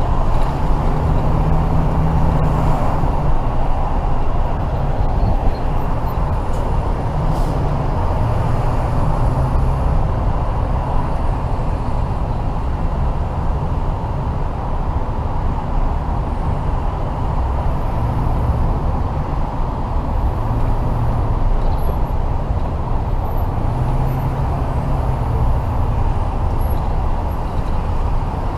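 Tow truck driving: a steady engine and road drone with a heavy low rumble that swells and eases now and then as the engine works.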